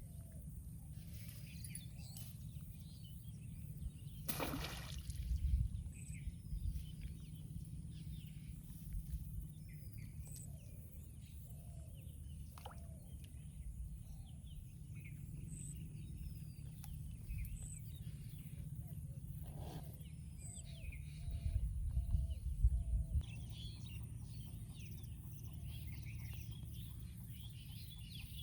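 Open-air rural ambience: scattered bird chirps and calls over a steady low rumble, which swells twice. There are a few brief knocks.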